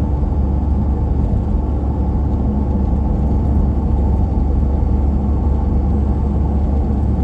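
Steady engine and tyre noise of a vehicle cruising on a dry road, heard from inside the cabin as a constant low drone.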